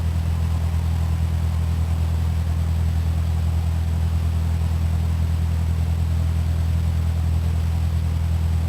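Cessna 152's four-cylinder Lycoming piston engine and propeller running at a steady power setting, a constant low drone that neither rises nor falls.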